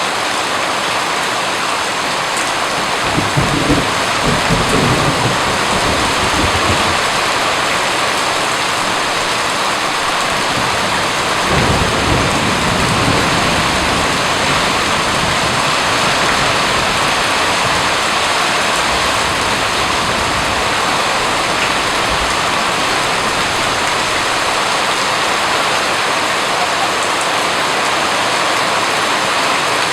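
Steady rain falling, an even hiss, with two rolls of thunder rumbling low: one about three seconds in and another about twelve seconds in.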